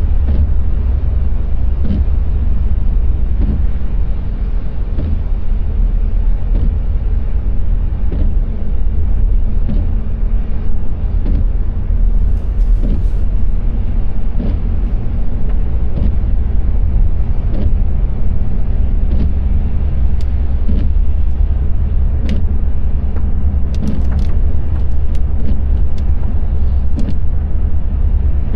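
Car driving on a wet road: a steady low road rumble with tyre noise, and faint short knocks every second or two.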